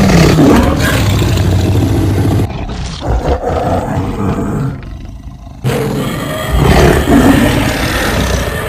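Cartoon lion's roar and a cartoon girl's scream played together, loud and ragged. It drops quieter about two and a half seconds in and comes back loud near six seconds.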